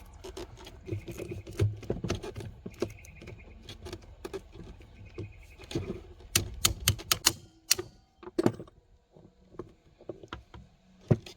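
Irregular metallic clicks and taps of small Cummins fuel pump parts and hand tools being handled during disassembly, with a low background rumble that stops about seven seconds in.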